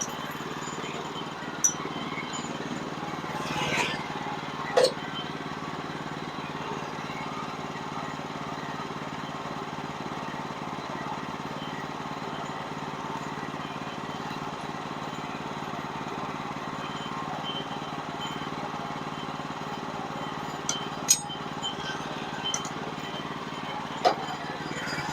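Small gasoline engine of a portable bandsaw sawmill running steadily at an even speed, with a few short sharp clinks and knocks, a couple near the start and a few more near the end.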